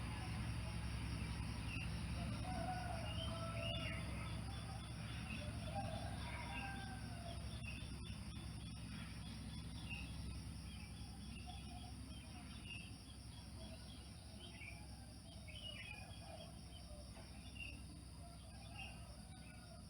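Birds chirping faintly and irregularly over a steady high-pitched drone and a low hum, the whole slowly fading.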